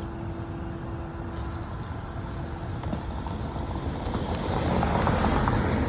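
Road traffic noise: a steady rumble of passing vehicles that swells louder about four seconds in, as of a vehicle going by.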